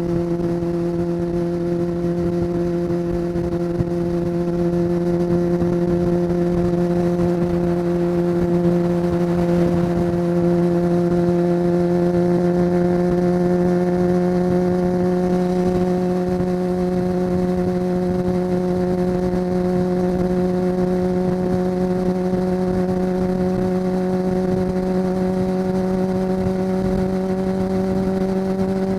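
Honda CBR600 F4's inline-four engine running at steady cruising revs while riding, its note holding one pitch and creeping slowly higher over the half-minute, with a steady rush of wind and road noise underneath.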